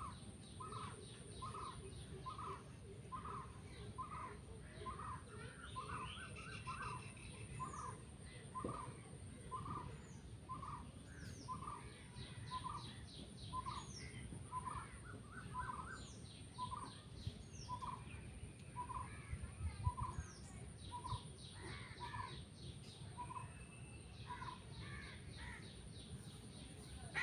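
Faint birdsong: one bird repeats a short, even note about three times every two seconds, while other birds chirp higher over it.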